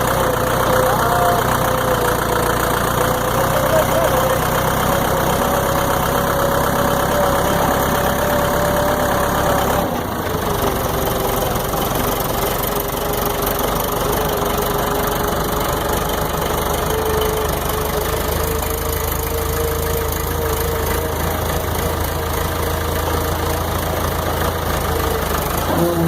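Tractor engine running steadily, with a continuous droning tone; about ten seconds in the sound changes abruptly and the tone settles a little lower.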